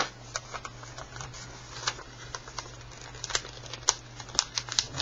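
A sheet of paper being folded and creased by hand: irregular crinkles and sharp crackles of the paper, over a steady low hum.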